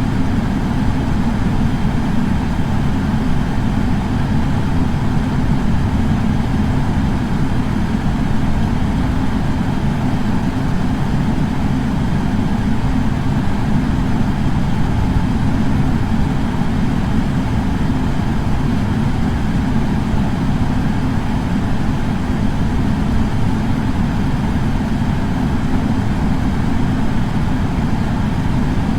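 Air purifier fan running steadily: a constant rushing noise, deepest in the low end, with no change in speed.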